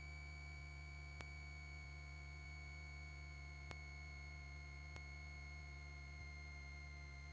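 Faint cockpit intercom audio of a Cessna 172 in flight: a steady high-pitched electrical whine over a low engine hum, with a faint click about every two and a half seconds.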